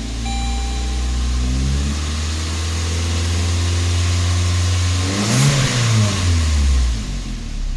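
2003 Saturn Ion's 2.2-litre inline-four engine being revved: the pitch rises and holds at raised rpm, a quick sharp blip of the throttle comes about five and a half seconds in, and it falls back toward idle near the end.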